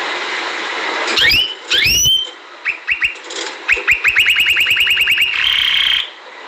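Domestic canary singing over a steady background hiss. Two quick upswept whistles, a few short notes, then a fast trill of repeated notes at about a dozen a second, ending in a held high note that cuts off shortly before the end.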